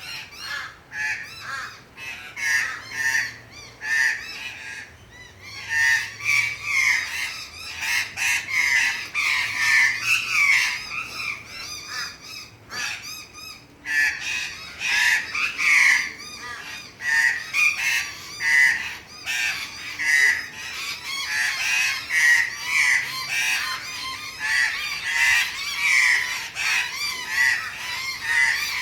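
Backyard birds giving rapid, overlapping alarm calls, mobbing a black-headed python, with a short lull about halfway through.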